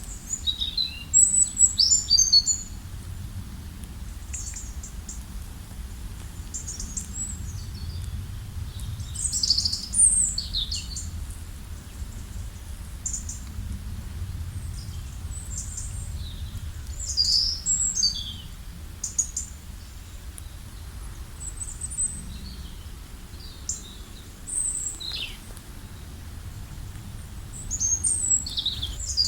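Small songbirds chirping and singing in short high-pitched phrases, louder flurries coming every several seconds, over a steady low background rumble.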